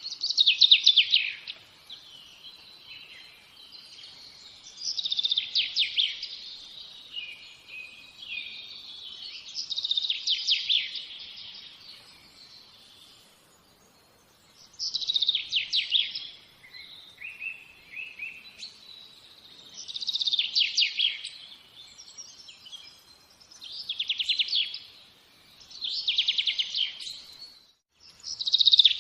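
A songbird singing short, fast-trilled phrases over and over, about one every four to five seconds.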